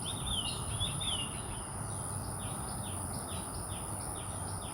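Birds calling outdoors: a few warbled chirps in the first second, then a run of short falling chirps repeating about three times a second. A steady high-pitched tone, such as insects or electronics, runs underneath.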